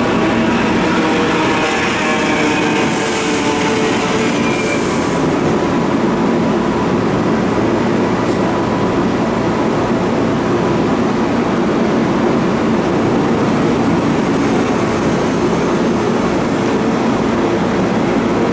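Keihan electric train running through the station, a steady loud rumble of wheels on rail, with a whine from the motors during the first few seconds and two short hisses at about three and four and a half seconds in.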